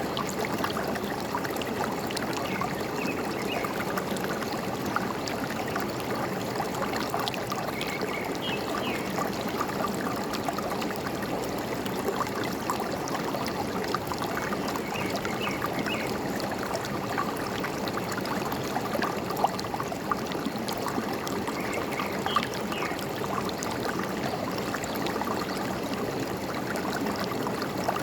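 Forest stream running steadily with a trickling, gurgling sound, and a few short bird chirps now and then above it.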